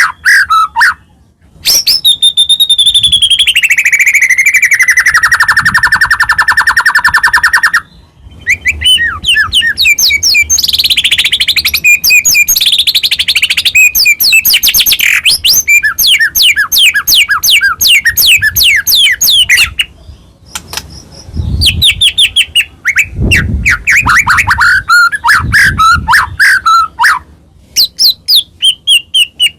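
White-rumped shama (murai batu) singing loudly in long, rapid trilled and rattling phrases, one sliding steadily down in pitch, broken by a few short pauses.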